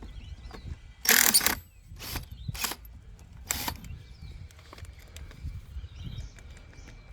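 Impact wrench ('rattler') fired in four short bursts on the excavator's sprocket bolts, the first and longest about a second in, then three brief ones over the next few seconds.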